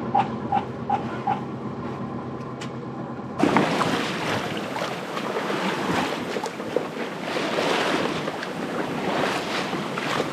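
A quick run of short electronic beeps over a steady hum, then from about three and a half seconds in, steady rushing of wind and water as a sailboat moves through the sea under sail, with wind buffeting the microphone.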